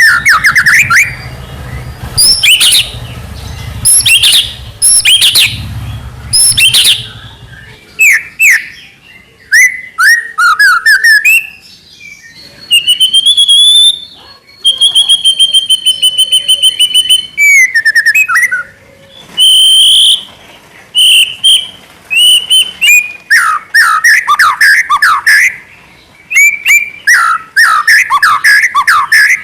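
White-rumped shama singing a loud, varied song of whistled phrases, sweeping notes and chirps in bursts. In the middle comes a fast run of evenly repeated notes lasting several seconds.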